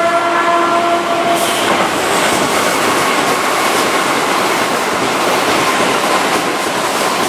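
Keihan 2400 series electric commuter train running past close by, its wheels and cars making a steady, loud rail noise over the track. A held pitched tone sounds for about the first second and a half.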